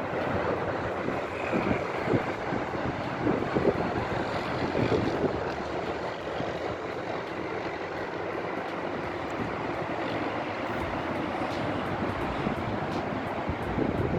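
Steady rushing noise of motorway traffic passing beneath a pedestrian bridge, with no single vehicle standing out.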